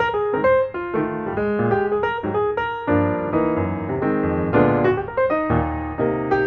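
Background piano music: a melody with chords.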